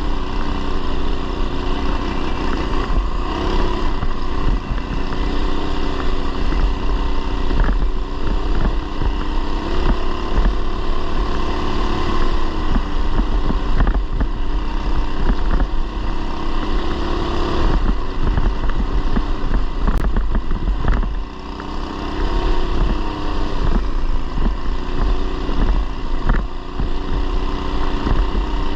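Coleman BT200X mini bike's swapped-in 212cc single-cylinder four-stroke engine running under load through a header muffler, its revs rising and falling as the bike is ridden, easing off briefly about two-thirds of the way through.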